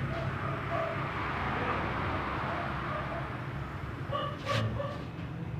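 Short whining animal calls over a low steady hum, clustered about four seconds in, with one sharp knock among them.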